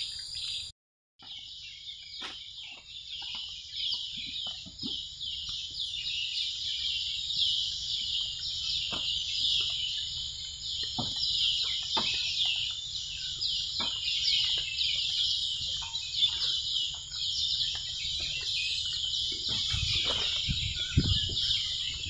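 Tropical forest cicadas calling in chorus: a dense, high-pitched buzzing made of rapid repeated pulses that goes on without a break. The sound cuts out for a moment about a second in, and a few low knocks come near the end.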